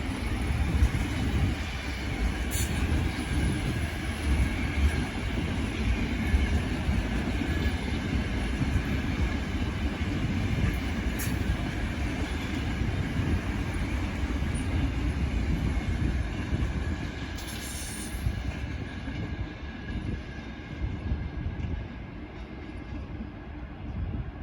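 A train running past on the rails with a steady rumble, a faint thin wheel squeal and a few sharp clicks, easing off over the last few seconds.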